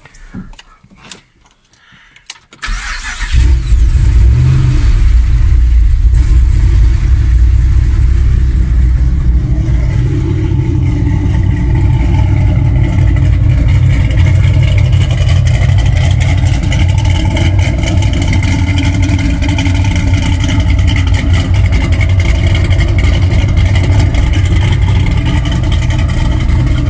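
The mid-mounted engine of a converted Chevrolet Impala SS starts about two and a half seconds in after a short crank. It then runs loud and steady with a deep rumble.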